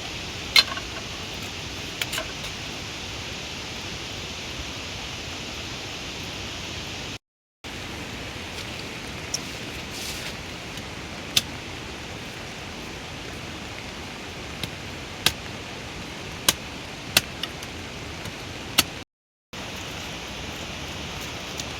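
Steady hiss of heavy rain, with scattered sharp ticks of single drops striking a hard surface. It cuts out twice briefly.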